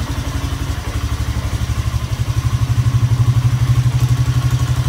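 Four-wheeler (ATV) engine running on its own after a cold start, with an even, rapid pulse that grows a little louder about halfway through.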